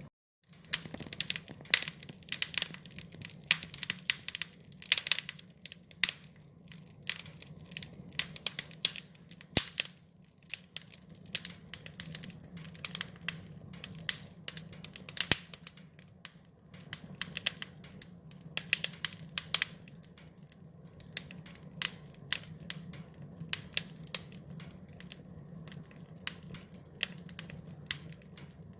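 Wood fire crackling: irregular sharp pops and snaps over a steady low hum of the burning fire, after a brief dropout at the very start.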